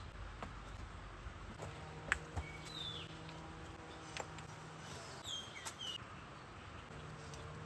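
Quiet forest ambience: a few short, high, falling bird chirps and scattered light knocks, with one sharp click about two seconds in.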